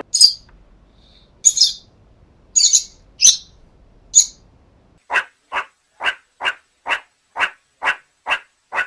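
A bird chirps about six times in short, high notes. About five seconds in, another animal starts a run of short, evenly spaced calls, about two a second.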